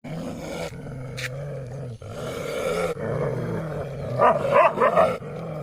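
Dogs growling in a fight: a steady low growl, breaking about four seconds in into a few louder snarling outbursts.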